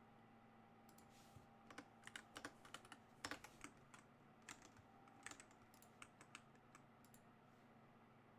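Faint, irregular typing on a computer keyboard: scattered keystrokes starting about a second in and stopping near the end.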